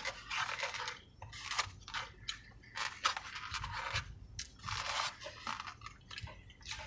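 Close-up mouth sounds of a person chewing a mouthful of taco: irregular wet, crunching bursts several times, with short pauses between them.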